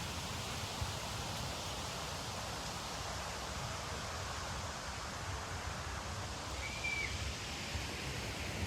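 Outdoor ambience: a steady hiss with wind buffeting on the phone's microphone as a rough low rumble, and one short high whistled note about seven seconds in.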